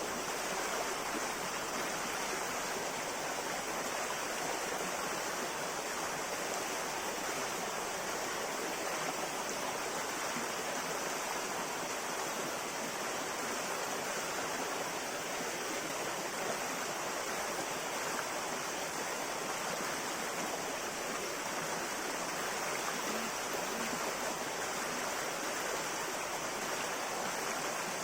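River water flowing steadily over rocks: an even, continuous rushing.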